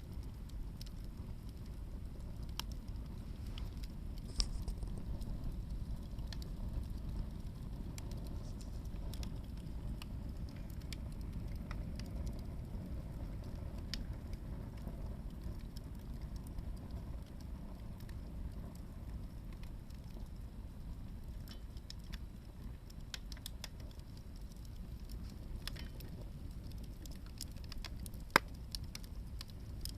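Hardwood log fire burning with a steady low rumble and scattered small crackles, with a sharper pop about four seconds in and a loud one near the end.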